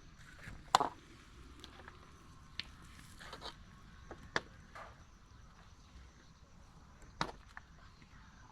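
A few scattered sharp knocks and clicks, several seconds apart, over a faint steady background; the loudest comes about a second in.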